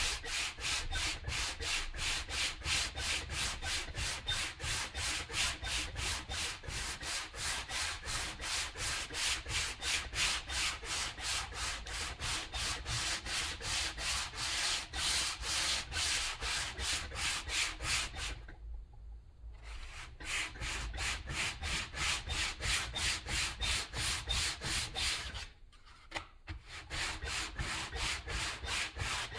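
Hand sanding to strip old paint and finish, in quick, even back-and-forth strokes, about three a second. The strokes stop twice: for a moment a little past the middle, and again shortly before the end.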